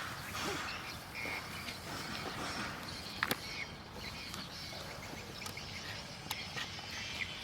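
Outdoor background noise with a few sharp clicks and short, faint chirps.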